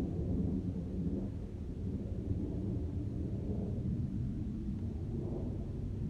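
Wind buffeting the microphone outdoors: a steady, uneven low rumble with no clear events.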